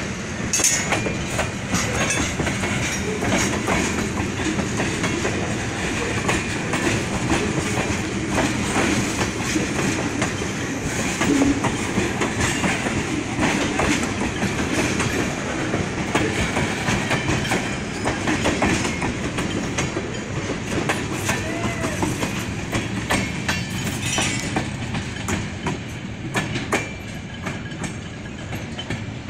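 A train rolling along the rails, its wheels clicking steadily over the track joints, with a few faint wheel squeals.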